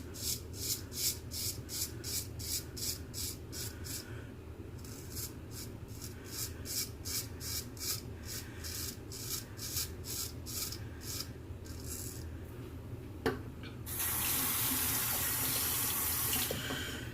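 Straight razor scraping through stubble in quick short strokes, about two to three a second, with a short pause about four seconds in. Near the end a tap is turned on with a click and runs steadily for about three seconds.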